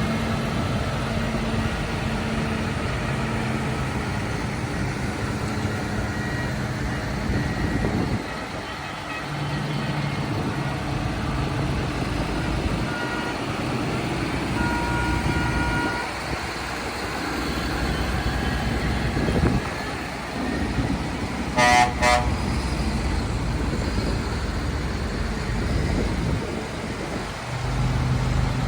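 Diesel engines of a convoy of tractors running steadily, with a vehicle horn sounding briefly about three-quarters of the way through.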